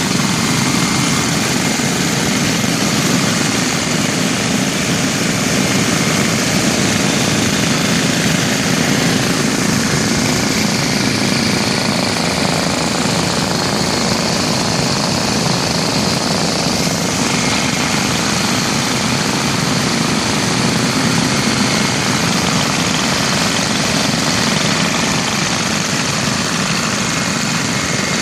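About twenty small vintage single-cylinder Briggs & Stratton engines, mostly Model Ns, running together at once. Their overlapping exhaust beats merge into one steady, dense chatter.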